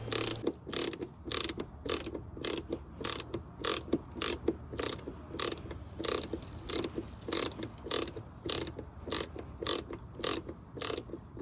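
Self-tapping screw being hand-driven with a screwdriver through a plastic mud flap into the fender liner, giving a steady series of clicks at about three a second.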